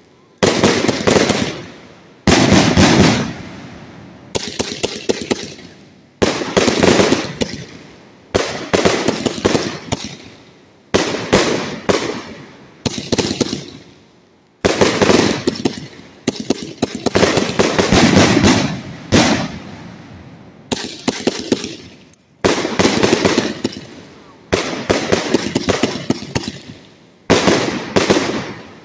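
A 100-shot firework cake firing shot after shot: a sharp bang about every one and a half to two seconds, each trailing off over a second or so before the next.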